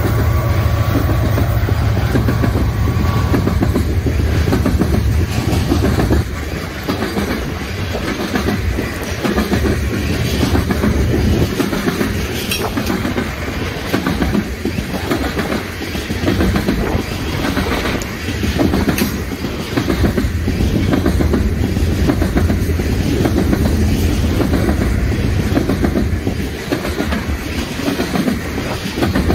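A freight train passing close by: two diesel locomotives rumble low for the first six seconds or so. Then coal hopper cars roll past with a steady clickety-clack of wheels on the rails.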